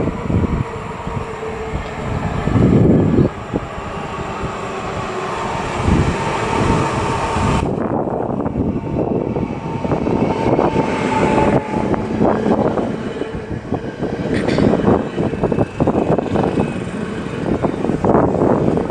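Trains running through a station: a steady rail rumble from a freight train on the far track, then a red-and-white electric multiple unit runs in alongside the platform, its wheels and motors loud as it passes close, with a faint whine partway through.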